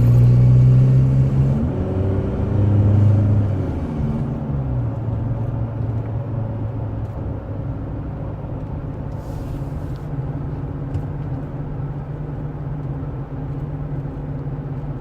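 Chevrolet Colorado's 2.8-litre Duramax four-cylinder turbodiesel, fitted with an S&B cold air intake, heard from inside the cab while driving. The engine note climbs about two seconds in, drops away around four seconds in, and then settles into a steadier, quieter cruise.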